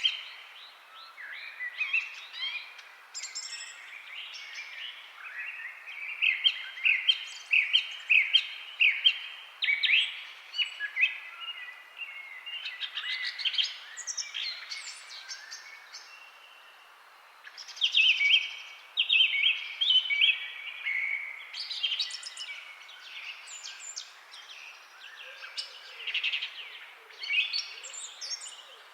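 Songbirds chirping and calling, many short sweeping notes overlapping in a busy chorus, with a brief lull a little past halfway.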